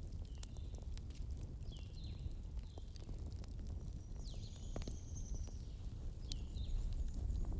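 Wood campfire crackling, with scattered sharp pops over a steady low rumble. Small birds give short falling chirps several times, and one longer high call comes near the middle.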